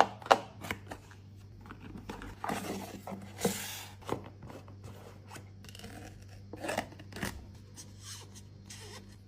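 Handling sounds of small cosmetic and skincare containers: a string of sharp clicks and taps with a few brief scrapes, over a faint steady hum.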